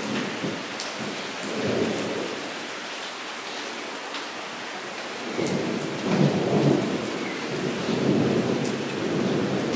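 Steady rain falling into a puddle on the ground, with scattered individual drop splashes; a low rumble swells up about halfway through and carries on.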